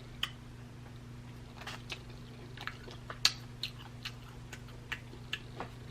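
Quiet chewing, with scattered soft mouth clicks and smacks over a steady low hum.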